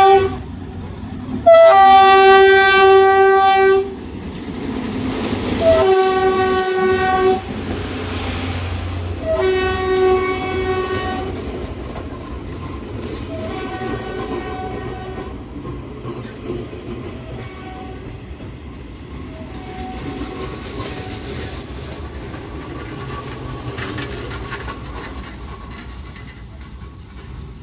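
A diesel-electric locomotive, a GE U15C, sounds its horn in a series of blasts as its train passes: the first blast is long and loudest, and the next ones, spaced about four seconds apart, grow fainter. Under and after the horn, the train's running noise and wheel clatter on the rails go on, fading away near the end.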